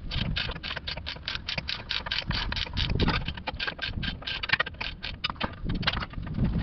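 Socket ratchet clicking in a steady run of about five to six clicks a second while an exhaust flange bolt is worked loose.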